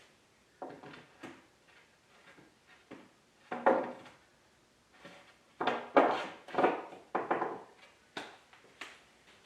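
Wooden parts of a workbench being handled and fitted: a series of short wooden knocks and scrapes, the loudest one about three and a half seconds in, then several in quick succession about six to seven and a half seconds in.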